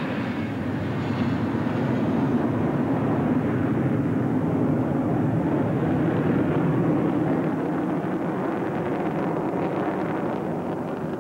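Jet noise from Thunderbirds F-16 Fighting Falcons flying past: a steady rumble that swells over the first couple of seconds, holds, then slowly fades toward the end.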